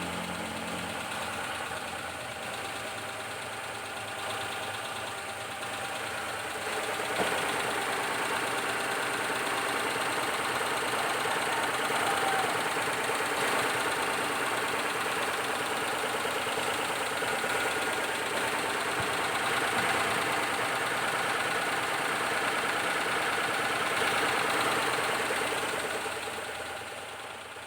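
Suzuki F6A 660cc three-cylinder engine running steadily after fresh synthetic oil, new plug wires and ignition timing set to 9 degrees BTDC, which the owner says now runs smooth. It gets a little louder about seven seconds in and fades out near the end.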